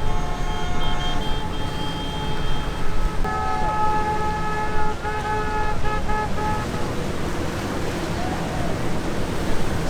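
Several boat horns sounding in long and short blasts, some at once, over steady boat engine and water noise. The horns stop about seven seconds in.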